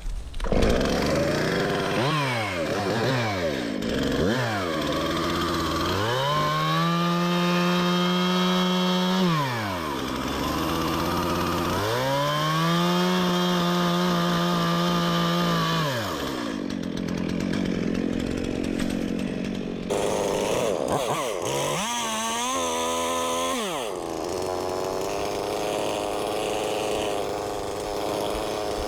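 Stihl MS 391 chainsaw sawing a log: a few quick throttle blips, then two long runs at full throttle of several seconds each, dropping back to idle between them, and a shorter full-throttle run near the end.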